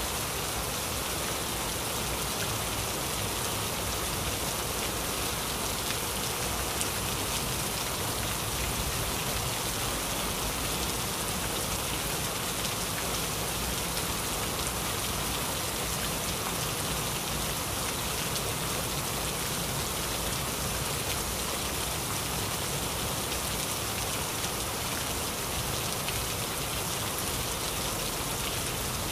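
Heavy rain falling steadily, a constant hiss of drops with no let-up.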